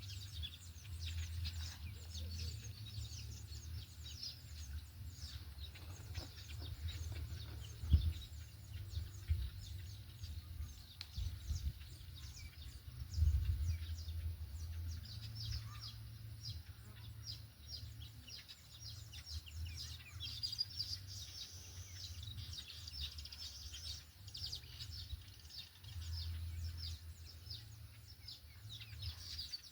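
Open-air ambience of many small birds chirping, over a steady low rumble, with sharp knocks about eight seconds in and again about thirteen seconds in.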